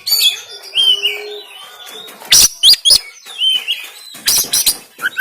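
Oriental magpie-robin singing: short whistled notes that slide up and down, broken by sharp, harsh strokes that come in quick clusters.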